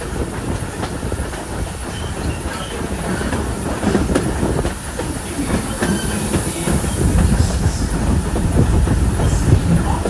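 Train rolling along on jointed track: a steady rumble with the clickety-clack of wheels over the rail joints.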